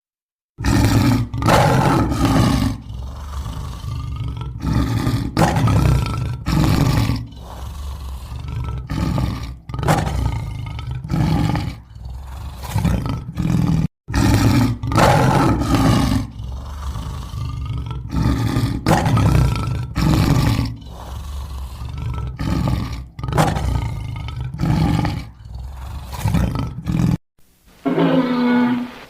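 Big-cat roar sound effect for the extinct American lion: a bout of loud roars tapering into shorter grunts. The same sequence of about 13 seconds plays twice. A different roar with a clearer tone comes in near the end.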